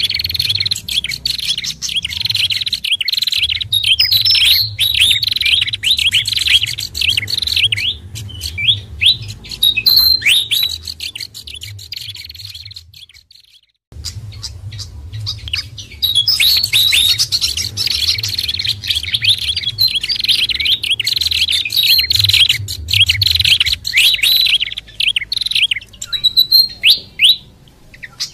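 Bird-lure recording of several songbirds calling together: a dense, continuous run of rapid high chirps and trills over a low rumble. It cuts out for a moment about halfway through and starts again.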